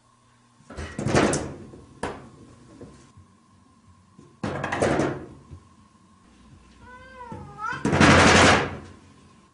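A house cat gives one short, wavering meow about seven seconds in. Three sudden loud knocking noises come at about one, five and eight seconds, the last the loudest.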